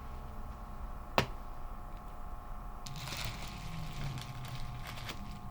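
A single sharp click about a second in, then soft rustling and handling noises over a low, steady hum.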